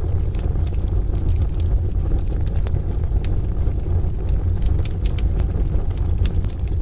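Wood fire crackling in a stove with scattered sharp pops, over a steady deep rumble from the rain-and-distant-thunder bed.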